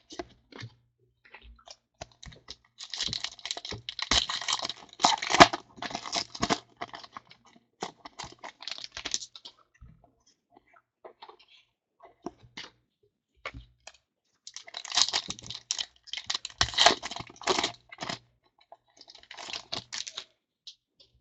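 Trading card pack wrappers torn open and crinkled in two longer bouts, with light clicks and shuffles of cards being handled in between.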